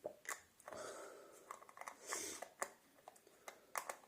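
Light clicks, taps and brief rustling from objects being handled, irregular and fairly quiet.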